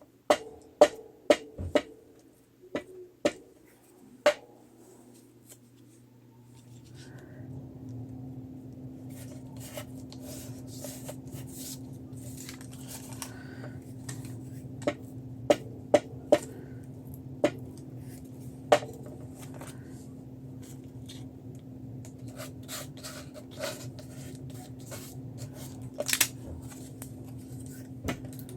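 Small hard craft items tapped, clicked and set down on a work table, several sharp taps in the first few seconds and scattered ones after. About six seconds in, a steady low hum with a held tone starts and runs on beneath them.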